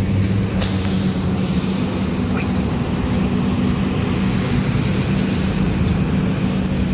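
A vehicle engine running steadily with a low, even hum over a haze of street noise.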